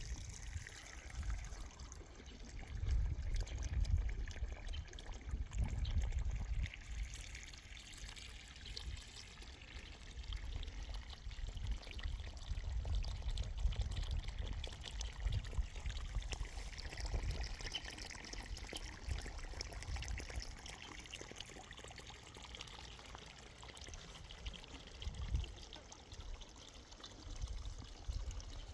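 Water running or trickling steadily, with an uneven low rumble of wind gusting on the microphone.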